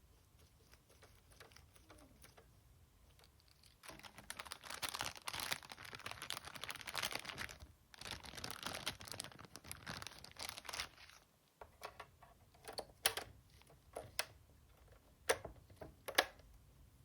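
Hands working on the PS4 Slim's plastic case parts: several seconds of scraping and rustling, then a run of sharp plastic clicks and snaps.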